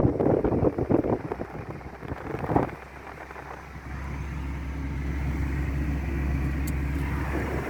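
Car driving on a dirt road: rough jolting and rattling for the first few seconds, then a steady low engine and tyre drone from about three seconds in.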